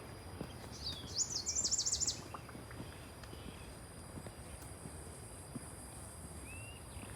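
Quiet outdoor ambience: a bird gives a fast, high trill of rapidly repeated notes about a second in, over a faint, steady, high insect whine and a few soft clicks.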